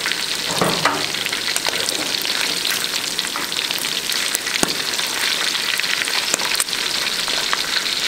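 Pieces of raccoon meat frying in a wide pan of hot oil: a steady sizzle with constant crackling and a few sharper pops, as the pieces are turned with metal tongs.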